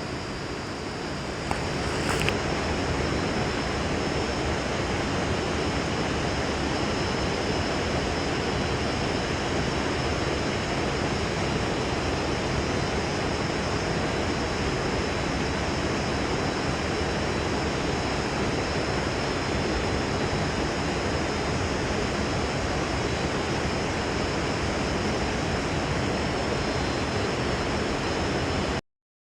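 Steady rushing noise with no distinct events, cutting off suddenly near the end.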